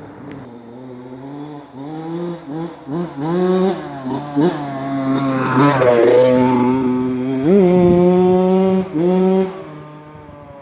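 Honda CR80 two-stroke dirt bike engine revving: a few short throttle blips, then pulling up to high revs and held there with brief dips, falling back to a low run near the end.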